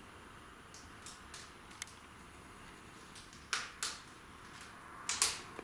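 Quiet room noise broken by a few short, sharp clicks or taps, with two louder pairs about three and a half and five seconds in.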